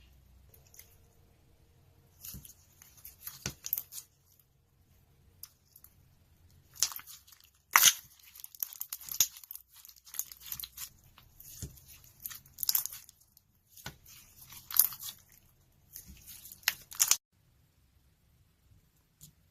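Slime being worked by hand, crackling in clusters of short bursts that stop about two seconds before the end.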